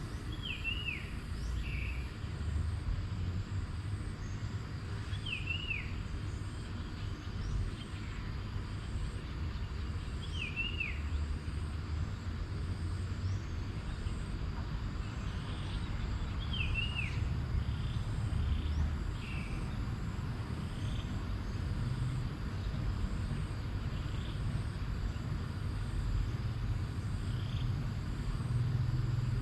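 Outdoor nature ambience: a bird repeats a short swooping call about every five seconds, with a few fainter calls between, over a steady low rumble and a faint high continuous hum.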